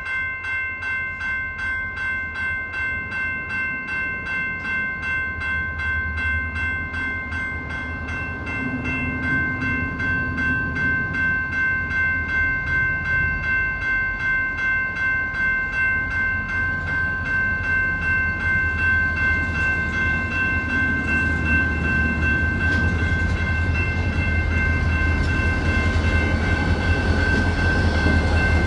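Railroad crossing warning bell ringing in a steady, even pulse, over the low rumble of CN diesel locomotives, which grows louder near the end.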